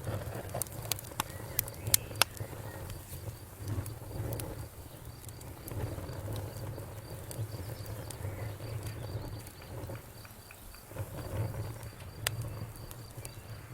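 Wood fire crackling, with sharp pops and snaps, several in the first couple of seconds and another loud one near the end, over a low steady rumble of the burning.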